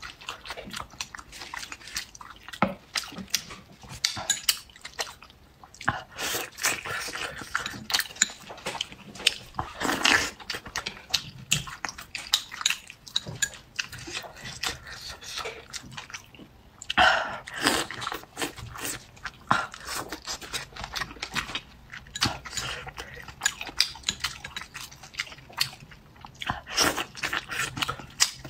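Close-miked chewing and wet mouth sounds of someone eating soft boiled dumplings dipped in sauce, with many sharp small clicks and a few louder noisy bites or slurps.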